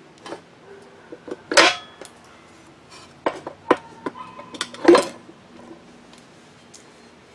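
Metal tools and motor parts knocking and clinking on a workbench during disassembly of a drill grinder motor: a few scattered sharp clanks, two of them louder, about a second and a half in and about five seconds in, some with a short metallic ring.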